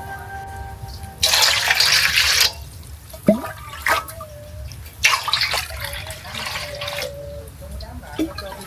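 Water splashing in two loud bursts, about a second in and again about five seconds in, with a short sharp squeak rising in pitch between them.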